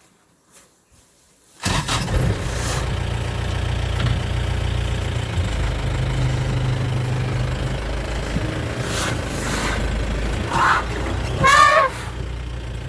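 A vehicle engine running steadily at low revs, starting suddenly about a second and a half in after near silence. Near the end, two or three short, wavering high calls sound over it.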